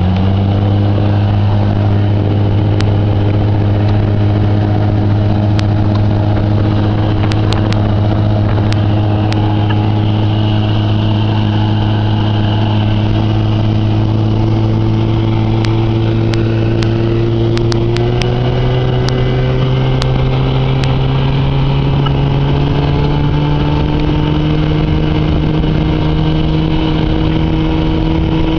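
1974 Evinrude 25 hp two-stroke outboard motor running steadily under way, its pitch climbing gradually a little past halfway through. A few short sharp ticks come through over the engine.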